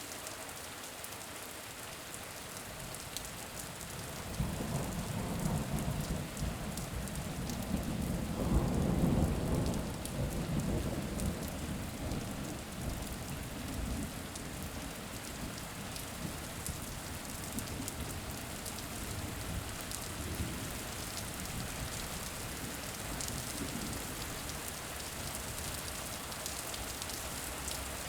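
Steady rain falling, with a long roll of thunder that builds about four seconds in, is loudest around nine seconds and dies away a few seconds later.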